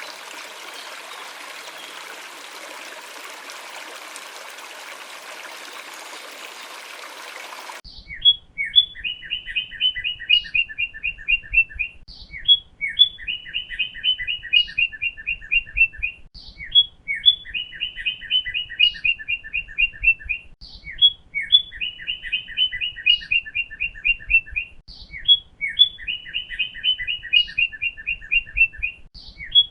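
Running water for the first eight seconds or so, then an abrupt cut to a songbird singing the same quick trilled phrase over and over, one phrase about every four seconds.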